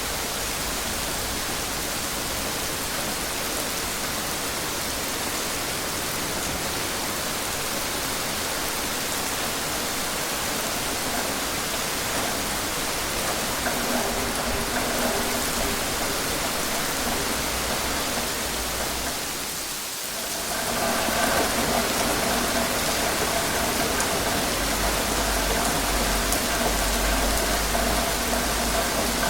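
Steady rain falling. A short dip about twenty seconds in is followed by a steady hum with several tones under the rain, like an engine idling.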